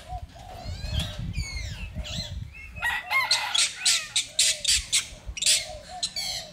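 Birds calling: short chirps and a repeated low clucking call, with a quick run of loud squawks from about three seconds in to five and a half.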